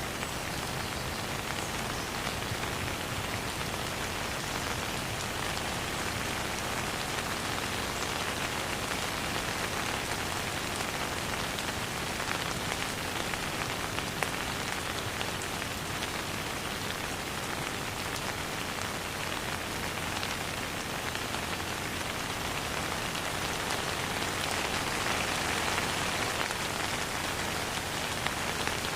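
Steady rain falling and pattering on a surface, with many small drop taps and no thunder; it swells a little near the end.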